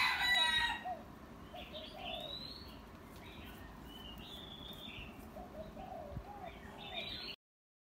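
Birds calling: a loud call with several pitches stacked together fades out about a second in, followed by scattered short chirps over a faint steady hum. The sound cuts off suddenly near the end.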